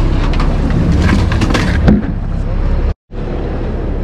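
Steady low rumble of a fishing boat under way, with scattered knocks and clatter, one sharp knock a little before two seconds. The sound cuts out for a moment about three seconds in, then the rumble returns.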